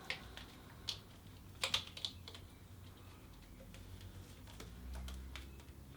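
Scattered small plastic clicks and taps as motorcycle wiring-loom connectors are handled and pushed together, with the sharpest few clicks about one and a half to two seconds in.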